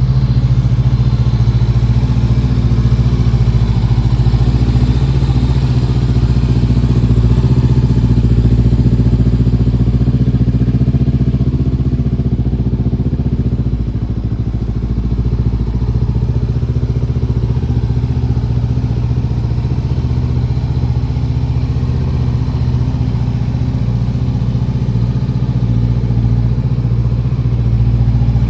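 Honda CBR500's parallel-twin engine idling steadily.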